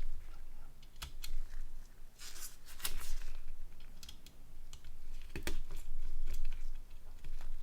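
Light clicks, taps and short scrapes of small plastic phone parts being handled and fitted together while a Nokia N80 is reassembled.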